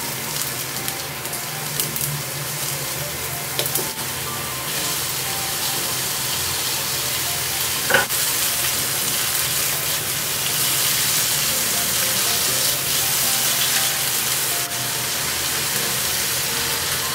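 Food sizzling and crackling in a hot pan, the sizzle growing louder about five seconds in and again around ten seconds. A single short clink about eight seconds in.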